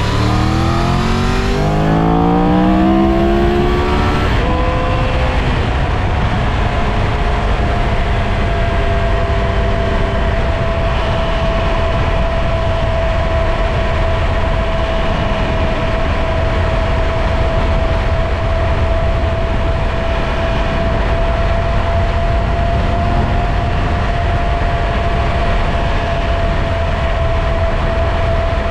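Triumph Tiger 1200 Rally Pro's three-cylinder engine accelerating, its note rising over the first four seconds or so, then holding a steady note at cruising speed under a constant rush of wind and road noise.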